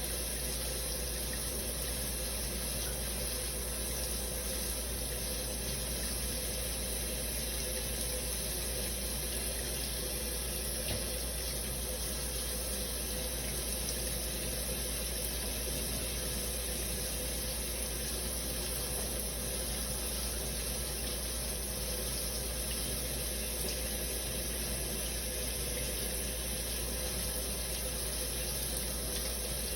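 Shower running steadily: a continuous, even spray of water.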